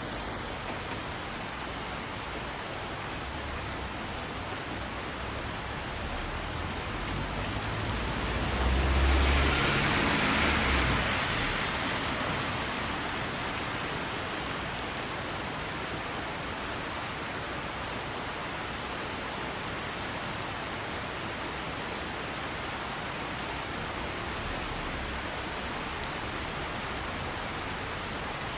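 Heavy rain falling in a steady, even rush. About nine seconds in, the sound swells louder for a few seconds with a low rumble, then settles back.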